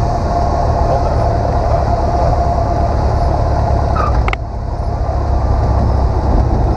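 Cabin noise of a Cessna 150 on the landing approach: its four-cylinder Continental O-200 engine and propeller droning steadily. A brief click comes a little past four seconds in, with a short dip in the noise afterwards.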